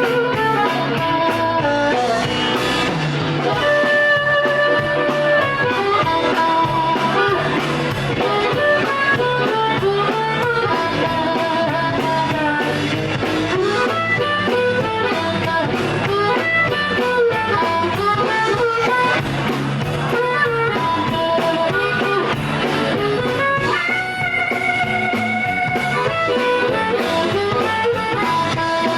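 Live blues band playing an instrumental break, with guitar lead lines over drums and bass in a steady shuffle.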